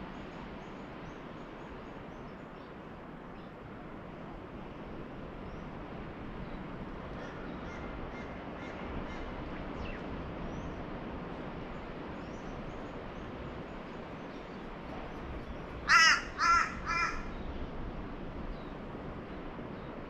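A bird gives three loud calls in quick succession about sixteen seconds in, over a steady background wash, with faint high chirps of small birds scattered throughout.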